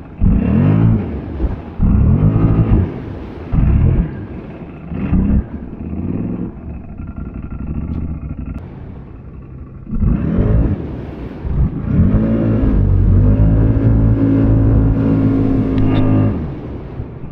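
ATV engine revving in repeated short bursts, each climbing and dropping, then held at high revs for several seconds near the end while driving through a mud hole.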